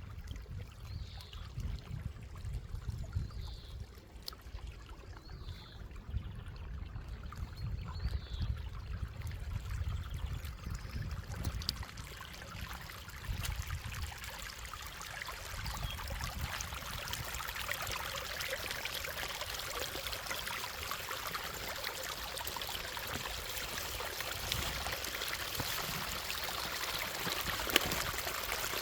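Running water of a stream, a steady rushing that grows louder from about halfway through, with a low rumble underneath in the first half.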